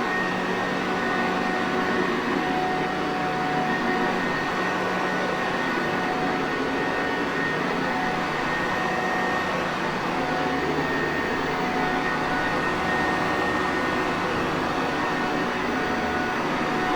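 Sanitaire Perfect upright vacuum cleaner running steadily: a constant rush of air and motor noise with a few faint, steady whine tones over it.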